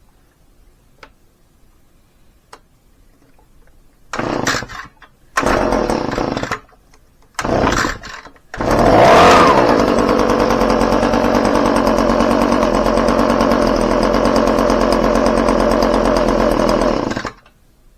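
Echo PB2520 backpack leaf blower's two-stroke engine being pull-started after a tune-up with a new spark plug. It fires in three short bursts, catches about eight and a half seconds in, and runs steadily for about nine seconds before it is shut off abruptly.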